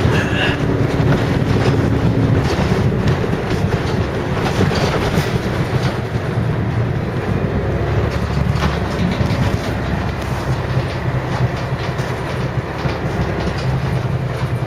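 Scania L113 single-decker bus running, its rear-mounted 11-litre six-cylinder diesel giving a steady low drone, with frequent small rattles over the top.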